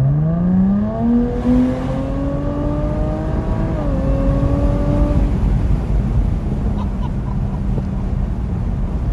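Jaguar F-Type P380's supercharged 3-litre V6 accelerating hard, its note rising steadily with a short dip about four seconds in, as at an upshift. About five seconds in the engine note drops away, leaving a steady low rumble of road and wind noise.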